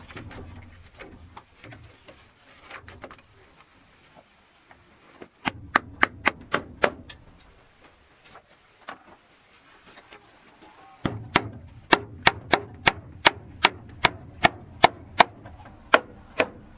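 Hammering on wood: a short run of about six blows about five and a half seconds in, then a longer steady run of about fifteen blows, roughly three a second, from about eleven seconds in.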